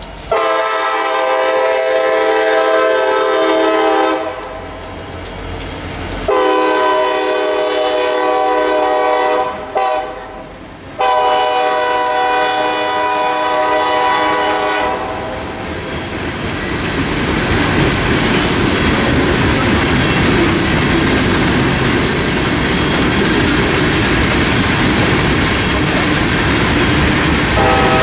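Diesel locomotive horn sounding a chord in three long blasts with short gaps between them, the pattern of a grade-crossing signal. From about halfway in, the train passes close by: a loud steady rumble with the clatter of wheels over rail joints.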